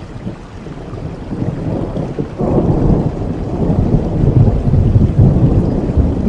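Rain falling steadily under a low rumble of thunder. The rumble builds, jumps suddenly louder about two and a half seconds in, and stays loud after that.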